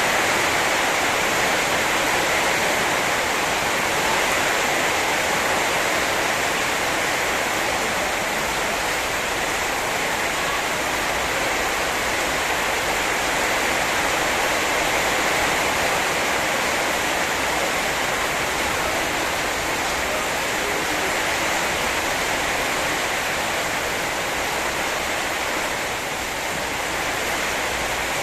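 Heavy rain falling in a storm downpour: a steady, even hiss with no letup.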